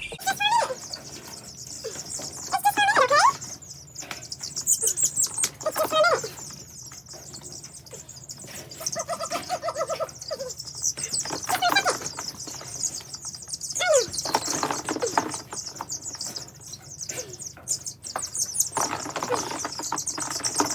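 Chickens calling, with several short falling calls and wings flapping, over a steady high chorus of peeping.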